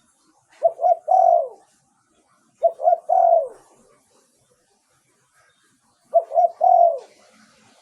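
Spotted dove cooing: three phrases, each two short coos followed by a longer coo that falls in pitch, with pauses of one to three seconds between them.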